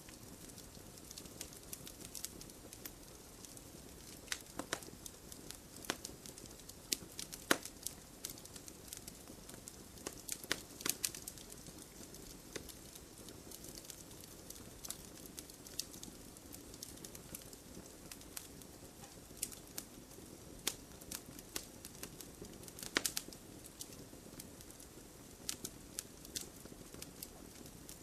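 Fire in a fireplace crackling: frequent sharp pops and snaps, with louder ones about 7 to 8 seconds in, around 11 seconds and near 23 seconds, over a soft steady rush of the flames.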